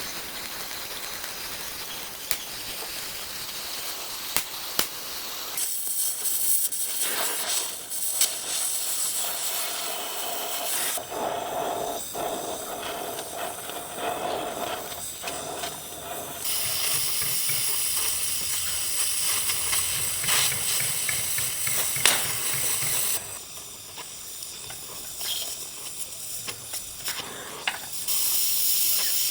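Body shop work noise: steady hissing from air-driven bodywork tools, with scattered clicks and knocks. The sound changes abruptly every several seconds, from one job to another.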